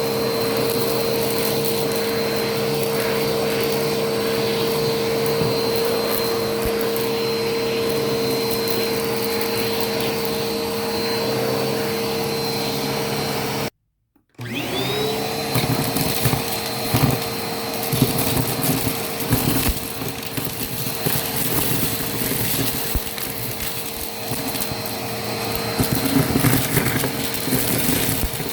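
Vacuum cleaner running with a steady motor whine, sucking up crunchy debris with scattered crackles that come thicker in the second half. About halfway through the sound cuts out for half a second, then the motor comes back with a quick rising whine as it spins up.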